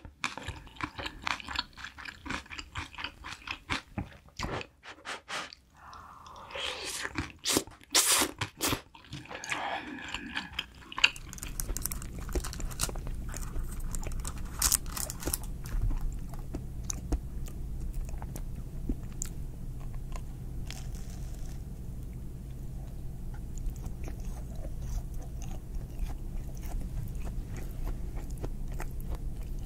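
Close-miked mukbang eating: wet chewing and smacking mouth sounds for about the first eleven seconds. Then, after an abrupt change, small clicks and rustles of a paper macaron box being handled and opened, over a steady low hum.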